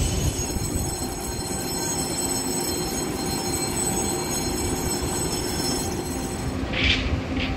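Taiwan Railway Tze-Chiang express train standing at a station platform: a steady low rumble with several thin high whines, and a brief high squeal about seven seconds in.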